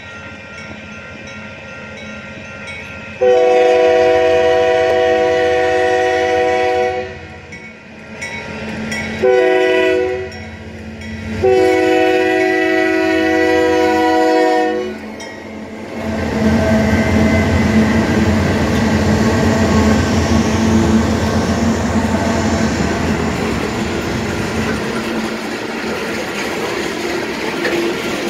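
Union Pacific diesel locomotives, GE AC6000CW units rebuilt as AC44C6Ms, sound their air horn in three blasts, long, short and long, as a warning for the grade crossing. About halfway through, the locomotives pass with a loud engine rumble, followed by loaded rock cars clattering over the rail joints.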